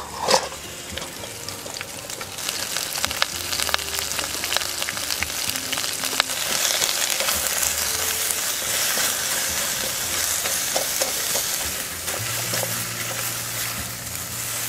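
Onion wedges sizzling in hot oil in an aluminium pot while being stirred with a spoon. There are a few knocks as the pieces drop in at the start, and the sizzle builds after two or three seconds.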